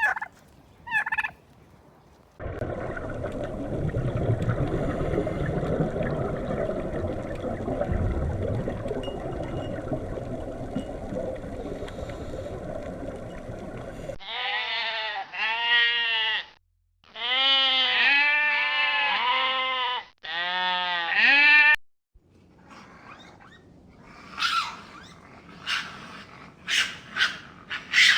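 A run of separate farm animal calls: short turkey gobbles in the first second, then a long rough noisy stretch, then several runs of warbling calls that rise and fall in pitch, and short sharp calls near the end.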